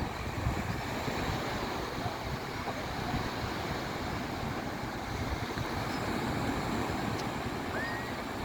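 Sea surf washing on a beach under steady wind buffeting the microphone, with a heavy low rumble. A faint short rising call sounds near the end.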